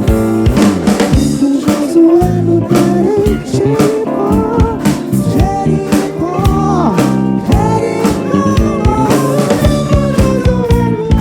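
Live band music: drum kit keeping a steady beat under bass and keyboards, with a lead melody line that slides and bends up and down in pitch over it.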